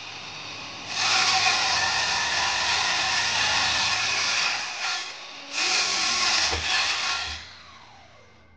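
Electric power tool motor running at full speed in two long bursts, then spinning down with a falling whine after it is switched off near the end.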